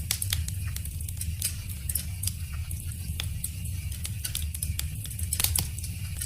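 Wood fire crackling: irregular sharp pops and snaps over a steady low rumble, with a few louder pops about five and a half seconds in.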